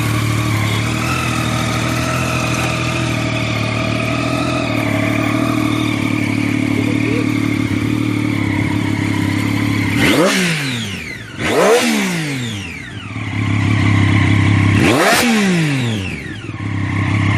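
Sport motorcycle engine idling steadily, then revved hard three times in the last seven seconds, each rev rising sharply and dropping back to idle.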